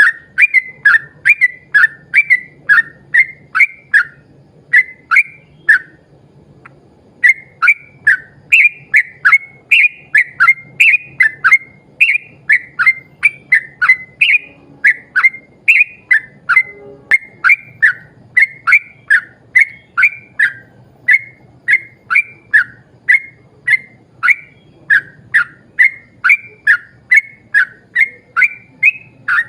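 Yellow-vented bulbul (trucukan) singing a long, fast run of short whistled notes, about two to three a second, with a brief break about six seconds in.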